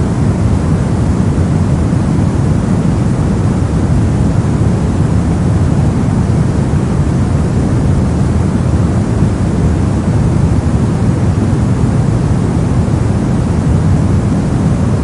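Steady brown noise: an even, deep rushing hiss with most of its energy in the low end, unchanging throughout.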